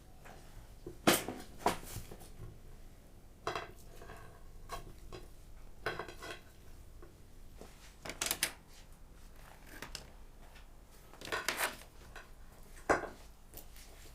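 Dishes and utensils clinking and knocking: about seven separate sharp strikes spread through the span, some with a brief ring.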